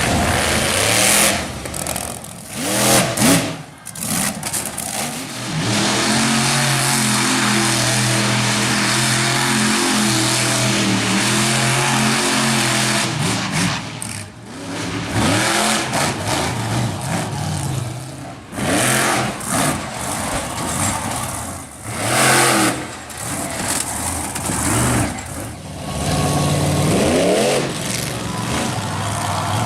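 Monster truck engines revving hard, the pitch sweeping up and down, with a steady high-rev hold for several seconds near the middle. The sound drops out briefly and suddenly several times.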